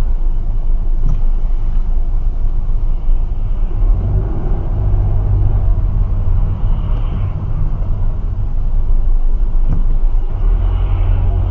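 Steady low rumble of a car driving: engine and road noise, with no distinct impacts.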